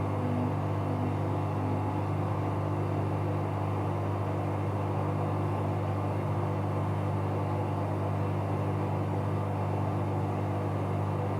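Bauknecht Super Eco 7615 washing machine running with a steady low hum and rumble, with no rise or fall in pitch.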